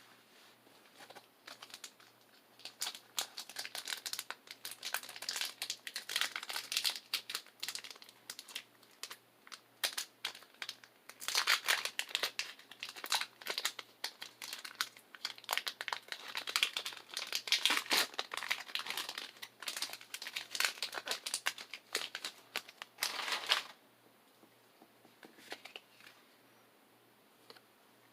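Foil Pokémon booster pack wrapper crinkling and tearing as it is opened, in dense crackling runs for about twenty seconds that stop abruptly near the end.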